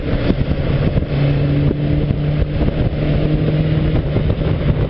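Motorcycle engine running steadily under way, with wind rushing over the microphone. A steady engine drone holds from about a second in until near the end.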